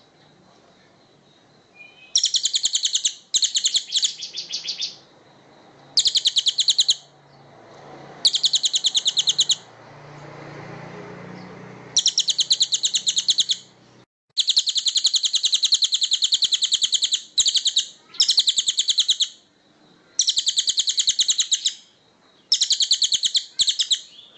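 A small songbird singing very rapid, buzzy trills in repeated bursts of one to two seconds with short pauses between them. A faint low hum sits under the gap about halfway through.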